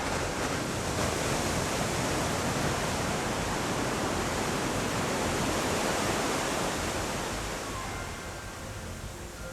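Ocean surf rushing in a steady wash of noise that swells at the start and dies down near the end.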